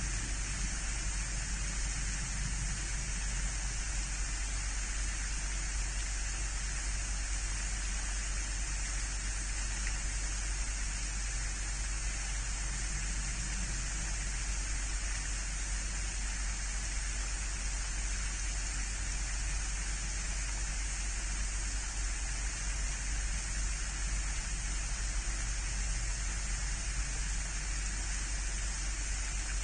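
Steady, even hiss with a low hum underneath, unchanging throughout and with no distinct events.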